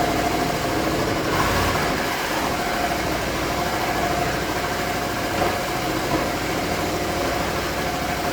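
Reciprocating saw (Sawzall) running steadily at full speed, cutting through a headless metal bolt.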